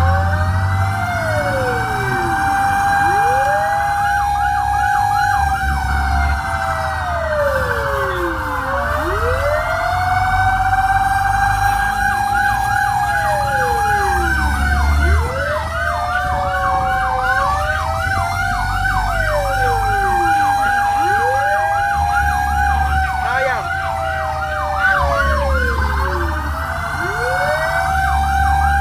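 Several fire truck sirens sounding together over a low truck engine rumble: long wails that fall and climb back every few seconds, overlapping stretches of rapid yelping sweeps, and a steady high tone.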